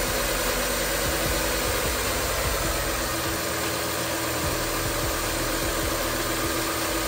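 2015 Nissan Versa's four-cylinder engine idling steadily, its new idler pulley and serpentine belt running smooth without a squeal.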